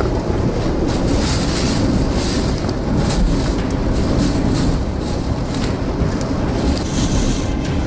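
Strong storm wind buffeting the microphone: a loud, steady rumble with gusts coming and going.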